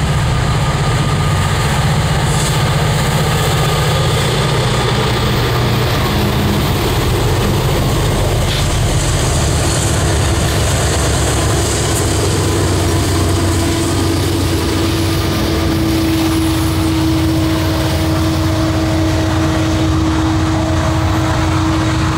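Diesel freight train passing close by: the lead locomotives' engines run with a loud, low drone, then the rolling cars rumble on the rails. About halfway through a steady whine joins in and holds.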